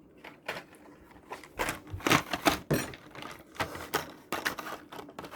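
Plastic blister packaging of toy car packs being handled, giving a run of irregular clicks and crackles, loudest about two to three seconds in.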